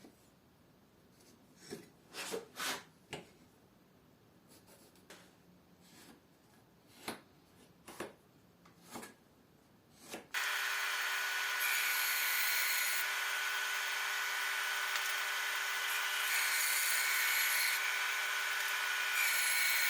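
A few knocks of wooden pieces being handled, then about halfway in a power saw starts cutting wood and runs steadily to the end, a constant tone under the cutting noise. The panel is being cut into wave-edged boards along its row of hole-saw cutouts.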